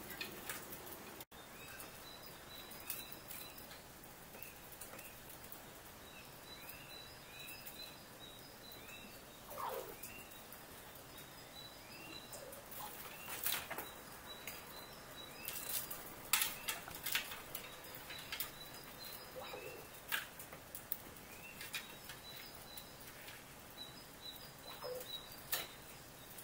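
Small birds chirping, a short call repeated many times, with a few lower descending calls. Scattered sharp clicks and ticks throughout.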